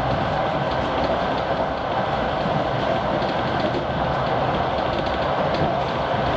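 Diesel-hauled passenger train under way, heard from on board: a steady rumble of wheels on the rails with scattered faint clicks, under the drone of the TEP70 diesel locomotive's engine.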